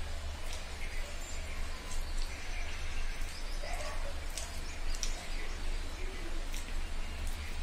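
A person eating by hand: chewing a piece of omelette with short, sharp wet mouth clicks and smacks at irregular intervals, over a steady low hum.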